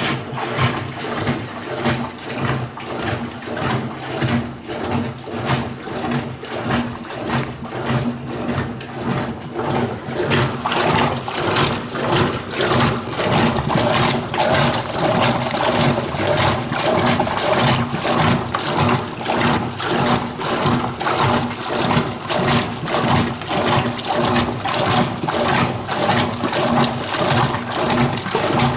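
Washing machine on its very dirty cycle: water running into the tub with splashing and sloshing, over a steady electrical hum.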